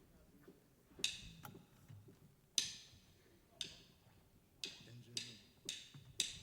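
A drummer's count-in, faint: two slow taps about a second apart, then four quicker ones about half a second apart, leading into the band's downbeat. An earlier pair of taps comes about a second in.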